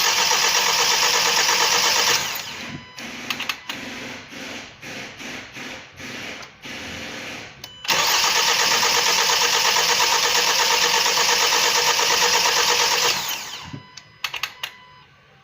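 Starter cranking the Kia Sorento's 2.0 T-GDI (G4KH) four-cylinder engine twice, once for about two seconds and then again for about five seconds, without it firing, on its first start after a repair; fuel has not yet reached the engine. Between the two attempts there are quieter irregular knocks, and a few clicks near the end.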